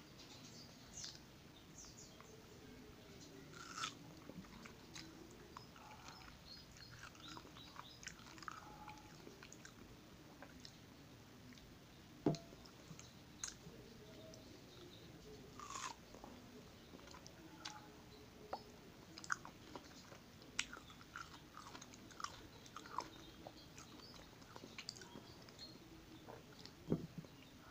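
Chewing and biting soft ripe mango flesh: wet mouth sounds and irregular small clicks, with a few sharper clicks scattered through.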